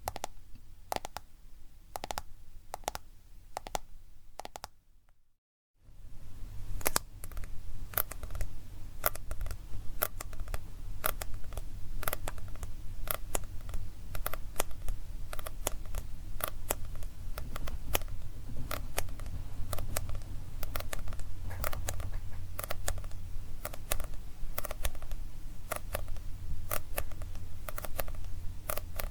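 Fingernails tapping on a smartphone for the first few seconds. After a brief silence, fingers tap and scratch rapidly on a manga book, a dense run of crisp clicks with a soft, dull body.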